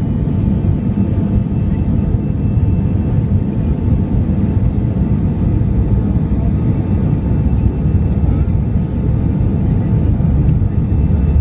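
Airbus A320-200 jet engines at takeoff power, heard from inside the passenger cabin as a loud, steady low rumble with a faint steady whine above it.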